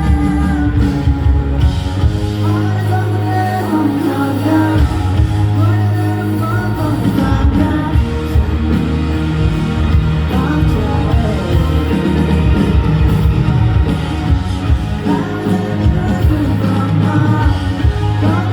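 A pop-rock band playing live, with a singer's voice over the band.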